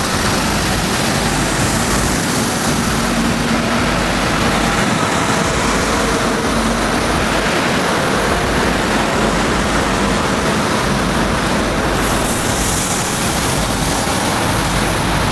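Steady, loud rushing noise of a vehicle on the move: road and wind noise with no clear engine note.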